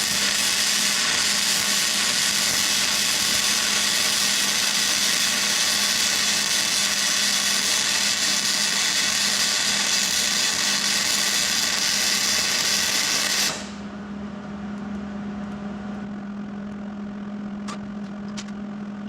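A power tool runs steadily on metal, then cuts off abruptly about thirteen seconds in, leaving a steady low hum with a few faint clicks.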